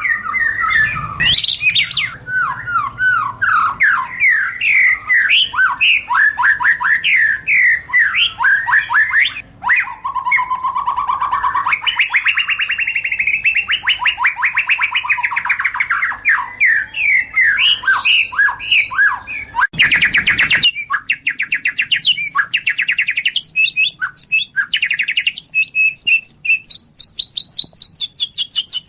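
White-rumped shama singing a long, varied song of rapid sweeping whistled notes, with a dense trilling phrase about a third of the way in and a brief noisy burst about two-thirds of the way through.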